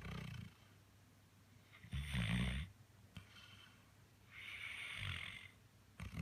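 A chocolate Labrador Retriever snoring in its sleep. There is a deep snore at the start, a louder one about two seconds in, a hissing breath a little before the end, and the next deep snore beginning right at the close.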